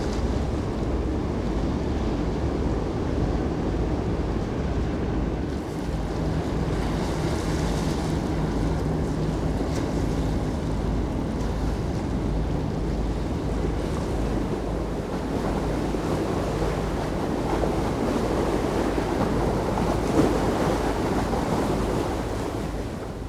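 Wind on the microphone and water noise on the canal, with a low steady ship-engine rumble beneath; the sound fades out near the end.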